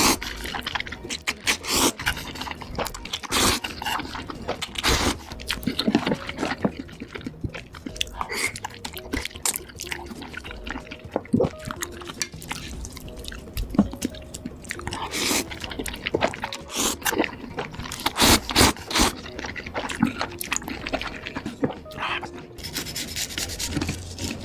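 Close-miked eating sounds: a person chewing and crunching food, with irregular sharp crunches and wet mouth sounds.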